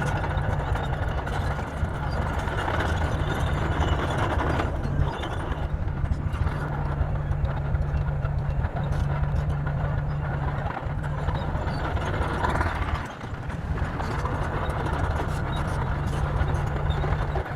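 Bulldozer's diesel engine running steadily under load, dipping briefly about three-quarters of the way through.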